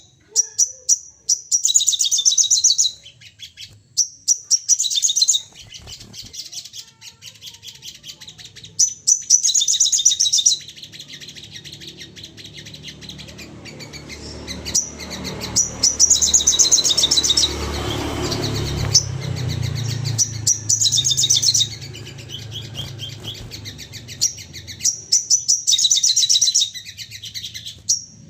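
Sogon songbird giving rapid, high chattering trills in repeated bursts of one to three seconds, with short pauses between. A low rumble underlies the middle stretch.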